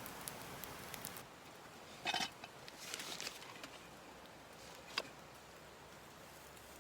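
Rustling and handling noises at camp: a short scraping rustle about two seconds in, a few small crackles just after, and one sharp click near the middle.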